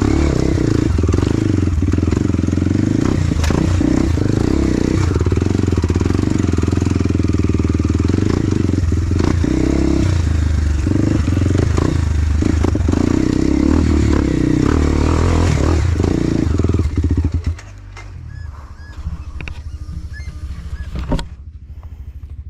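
Enduro dirt bike engine running steadily and loudly; about seventeen seconds in the engine sound drops away sharply, leaving quieter clatter.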